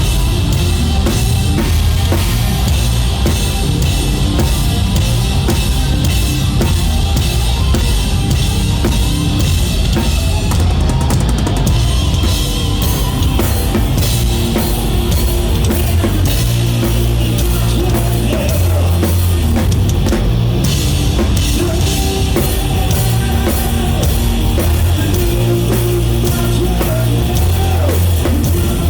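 A rock band playing live at full volume, with the drum kit prominent in a steady beat under electric guitars and bass.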